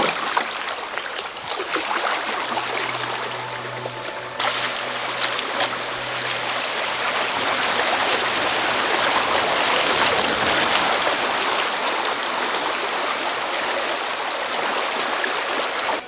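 Rushing water, a steady loud wash, with an abrupt change about four seconds in and a faint low hum for a few seconds early on.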